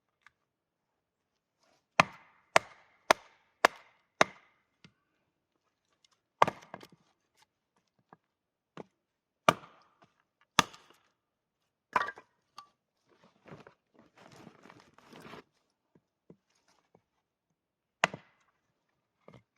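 Wood being chopped: sharp single blows, first a quick run of five about half a second apart, then slower separate strikes, with a brief stretch of rustling handling of the wood in the middle.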